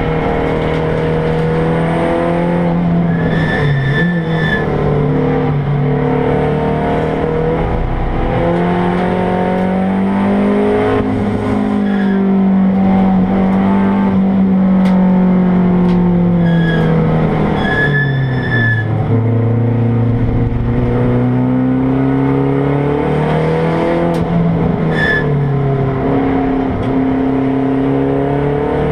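Race-prepared Mazda 3's engine heard from inside the stripped, caged cabin, its note climbing and falling as the car accelerates and slows. A few short high-pitched squeals come about four seconds in, around two-thirds through, and again near the end.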